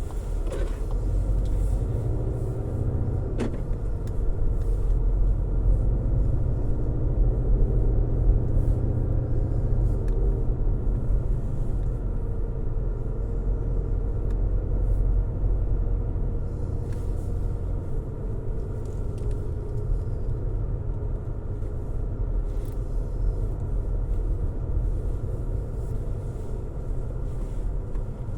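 A car driving on a road: a steady low rumble of engine and road noise, with a faint wavering hum over the first half and a single click about three seconds in.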